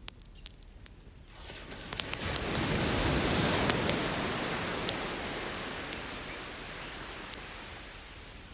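An ocean wave breaks and washes up the beach, swelling about a second in and slowly fading, while a bonfire crackles with scattered sharp pops.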